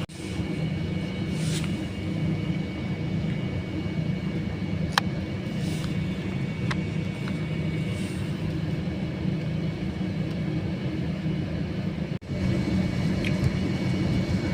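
Steady cabin rumble of an Airbus A321-200 taxiing: engines and air conditioning heard from a passenger seat, with a sharp click about five seconds in. The sound drops out for an instant near the end and comes back a little louder.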